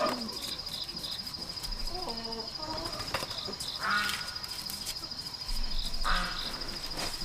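A steady, high, rapidly pulsing insect trill, with a few short bird chirps over it, about four and six seconds in.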